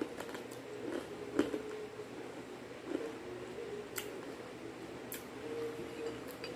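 Close-up chewing of crispy fried chicken-intestine chips, with a few sharp crunches spaced a second or more apart.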